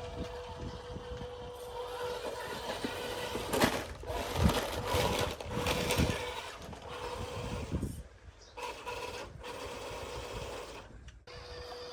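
Radio-controlled off-road truck's electric motor and drivetrain whining as it works over dirt, with tyres crunching and scrabbling on loose soil, busiest in the middle. The sound drops out abruptly twice near the end.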